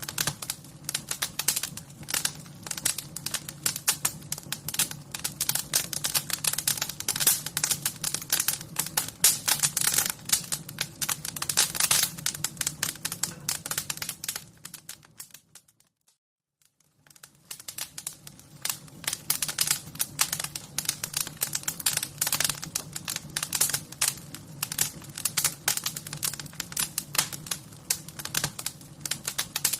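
Wood fire crackling: a dense, irregular stream of sharp snaps and pops over a low steady rush. About halfway through it fades out to near silence for a second or so, then fades back in.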